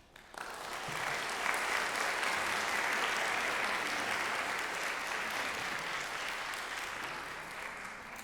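Audience applauding after the band finishes a piece; the clapping starts suddenly, holds steady, and tapers off near the end.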